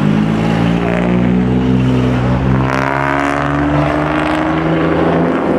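Engine of a roughly 2000 hp Underground Racing-tuned Lamborghini Huracán STO V10 running steadily, then revved once about two and a half seconds in, its pitch climbing and easing back down.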